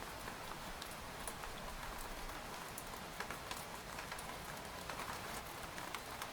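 Rain falling steadily on a tent, a continuous hiss with many irregular sharp drop taps on the fabric.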